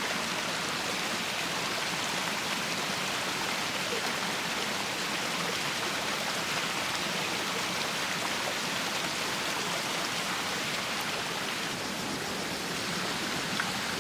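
Steady, even rush of water noise, from heavy rain and running floodwater, with no break.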